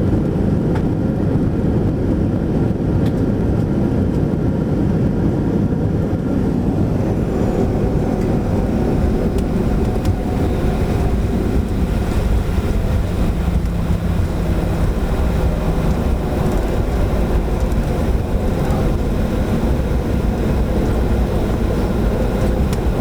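Steady low rumble of a jet airliner's engines and airflow heard inside the passenger cabin, on landing at the end of a flight.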